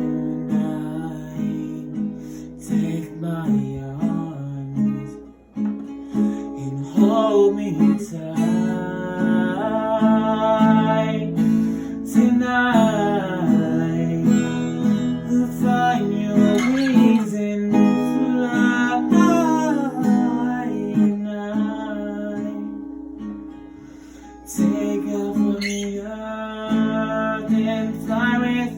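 Acoustic guitar strummed and picked, with a man's voice singing long wordless, melodic runs over it; the music softens near the three-quarter mark, then the guitar comes back in fuller.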